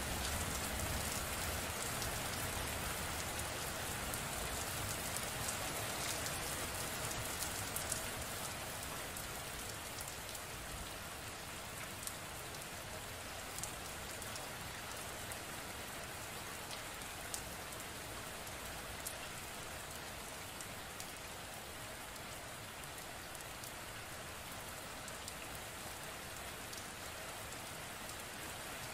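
Steady rain: an even hiss with scattered sharp ticks of single drops, growing a little quieter over the first ten seconds.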